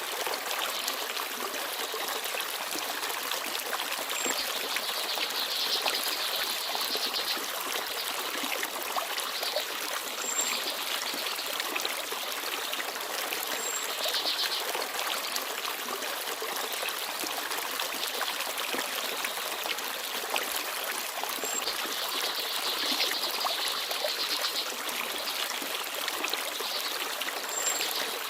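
Forest stream babbling steadily. A small bird gives a few brief, high chirps now and then.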